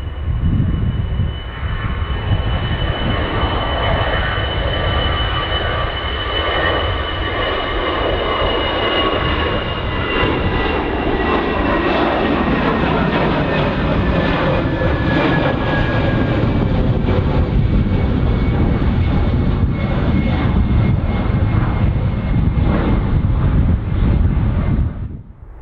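Airliner engines running loud as an aircraft passes: a deep rumble under a high whine whose tones fall slowly in pitch. The sound cuts off suddenly near the end.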